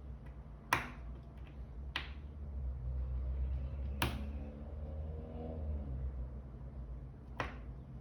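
Four sharp clicks, irregularly spaced a second or more apart, over a low steady hum.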